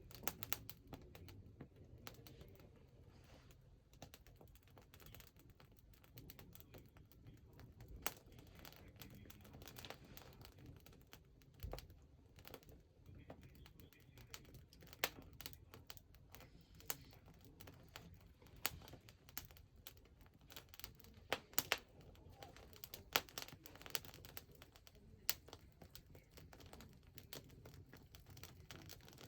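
Wood fire crackling: irregular sharp pops and snaps, a few louder ones around the middle, over a low steady rumble.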